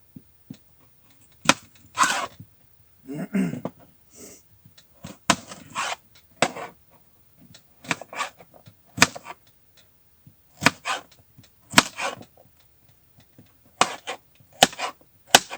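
Knife chopping food on a cutting board: sharp knocks at an uneven pace, about a dozen in all.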